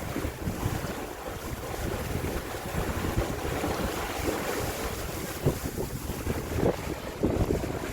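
Wind buffeting the microphone and water rushing along the hull of a 1980 Comfort 30 sailboat under sail, with a gusty low rumble and irregular thumps.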